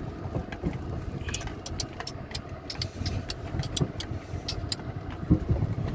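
Car moving with a steady low engine and road rumble inside the cabin. Through the middle there is a quick run of sharp, irregular clicks.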